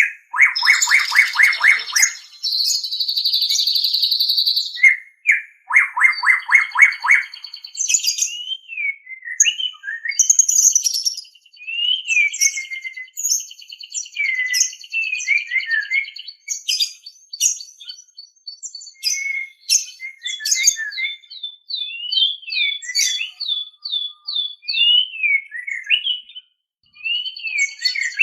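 White-rumped shama (murai batu) singing: harsh rapid rattles and a steady buzzy trill in the first several seconds, then a long run of clear whistled notes gliding up and down, with a series of quick repeated down-slurred notes near the end.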